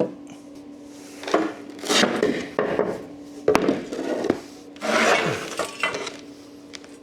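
Timber boards and metal tools being handled on a bench: a run of irregular knocks, clinks and scrapes over a faint steady hum.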